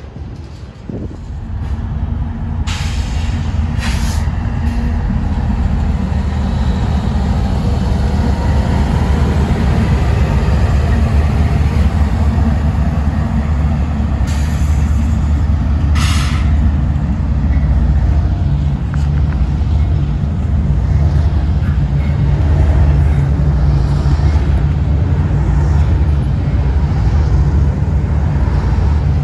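Freight train's diesel locomotive running close by: a heavy, steady low rumble that builds over the first two seconds. Short sharp hisses of air come twice around three to four seconds in and twice again around fourteen to sixteen seconds in.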